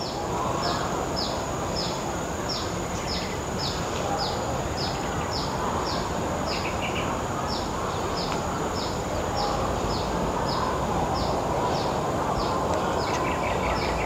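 Steady outdoor background noise with a bird repeating short, high, falling notes about two a second. A faster, lower trill joins briefly about halfway through and again near the end.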